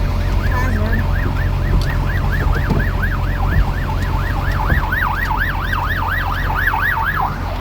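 Emergency vehicle siren in a fast yelp, about four rising-and-falling sweeps a second, growing louder past the middle and stopping shortly before the end, over a steady low rumble.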